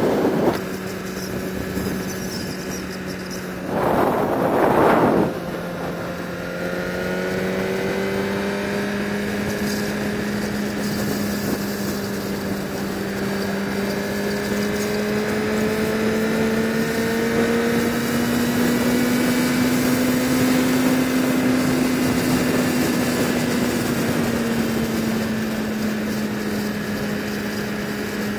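Sport-bike engine running at a steady cruise. Its pitch drifts slowly up and then eases back down. A loud rush of noise, like wind on the microphone, comes about four seconds in.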